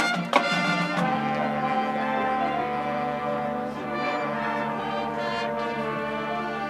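Marching band brass section holding a long sustained chord, after two sharp percussion hits just at the start.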